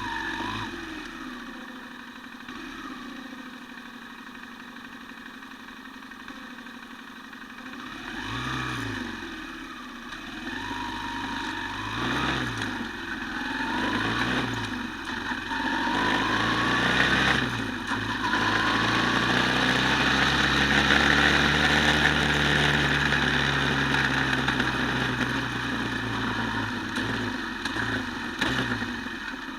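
Quad bike engine idling, then revved in several short rises and falls, then held at higher revs for several seconds before dropping back, with a few quick blips near the end.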